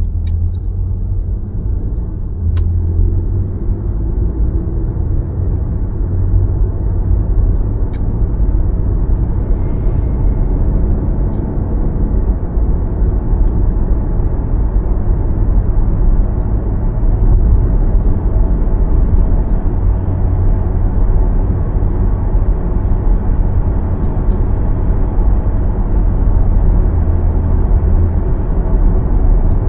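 A car driving: steady low road and tyre rumble, with a few faint ticks.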